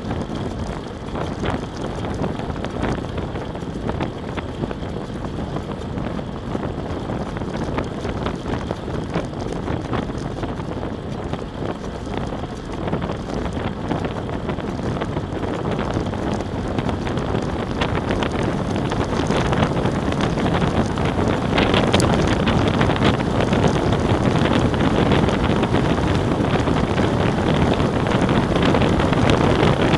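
Wind buffeting the microphone: a loud, steady rushing that grows louder in the second half.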